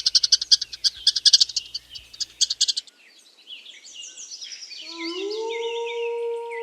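Chipmunk giving fast, repeated high-pitched chip calls that stop about two and a half seconds in. A few falling whistles follow, and near the end a long, steady howl begins.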